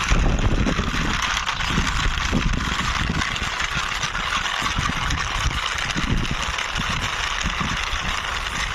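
Plastic wheels of a toy drum truck rolling steadily along a rough wall top as it is pushed by hand, a continuous gritty hiss, with wind buffeting the microphone.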